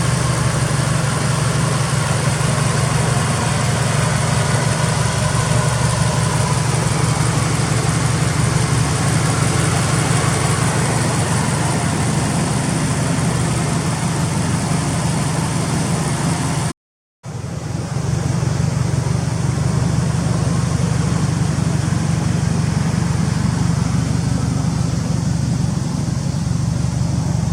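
Subaru Impreza STI (GDB) turbocharged flat-four idling steadily through its Tomei exhaust manifold and GP Sports muffler, with a deep, even exhaust note. It cuts out briefly about two-thirds of the way through, then carries on with less hiss.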